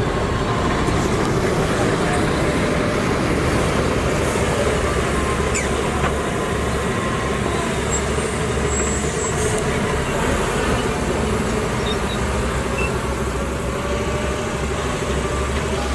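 Heavy diesel earthmoving machinery running steadily, a constant engine drone with no pauses.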